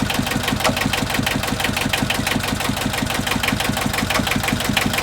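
Solé Mini 17 marine diesel engine running steadily with an even, rapid beat, running okay after its fuel system was cleaned of diesel bug.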